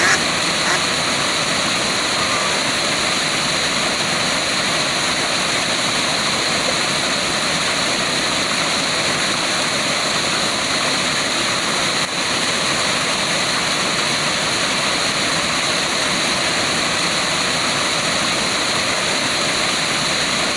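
Waterfall: a steady, even sound of falling water.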